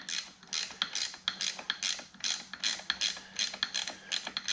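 Socket ratchet wrench clicking in quick repeated strokes, about three or four a second, as a bolt is worked.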